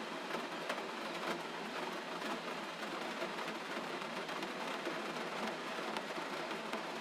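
Steady gentle rain: an even hiss scattered with many small, irregular drop ticks.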